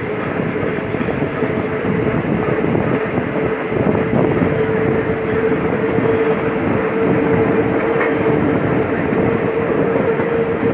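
Train Jaune, the metre-gauge electric train, running along the track, heard from an open carriage window: a steady rumble and clatter of wheels on rails, with a steady hum running through it that grows stronger from about four seconds in.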